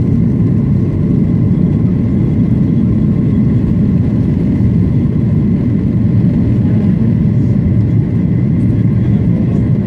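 Boeing 737-800's CFM56-7B turbofan engines and airflow heard inside the passenger cabin: a loud, steady low noise with faint steady high tones above it.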